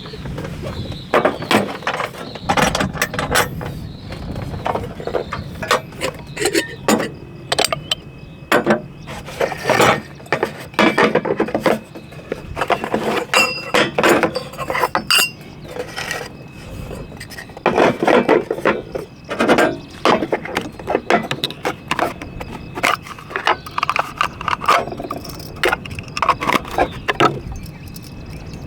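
Irregular clinks, clicks and knocks of small camping tea gear being handled: a small metal kettle, cups and utensils being set out and worked.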